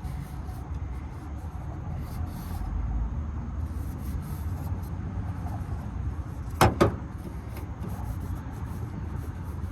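Handling of a plastic oil filter cap: rubbing and light ticks, then two sharp knocks close together about two-thirds of the way in, over a steady low rumble.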